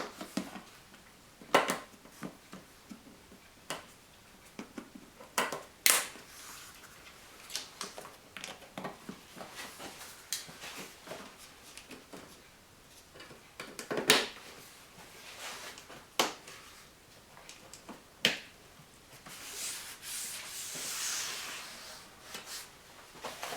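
Irregular sharp clicks and knocks of car parts being handled and pressed back into place, with a longer rustling scrape near the end.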